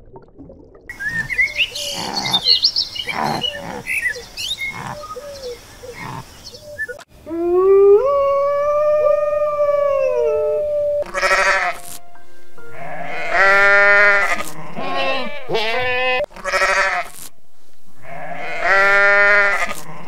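A run of animal calls: high chirps and clicks at first, then one long wolf howl that rises and then falls, then several wavering sheep bleats.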